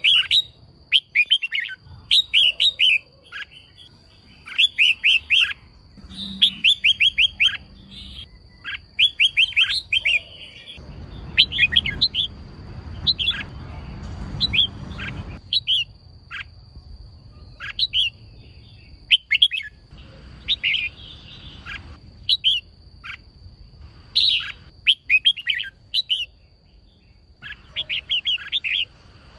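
Female red-whiskered bulbul calling: quick clusters of short, sharp chirps, repeated again and again with brief gaps between. This is the kind of female call played to stir male bulbuls into singing.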